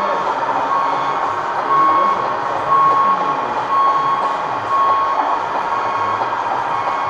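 Reversing beeper, most likely from a 1:14-scale RC truck's sound module, sounding a high beep about once a second over a steady background hum.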